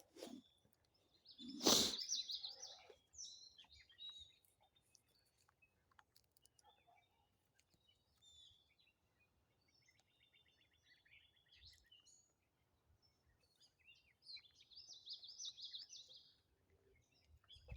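Songbirds singing in short high, warbling phrases, one about two seconds in and another near the end, with a rapid trill in between. A single sharp crack sounds just before the first phrase.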